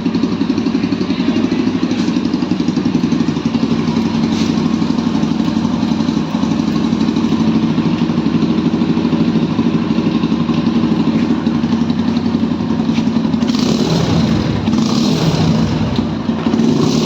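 Exhaust of a Hero Xtreme 160R's single-cylinder engine running steadily with an even low pulsing beat; about thirteen seconds in the sound changes and turns brighter.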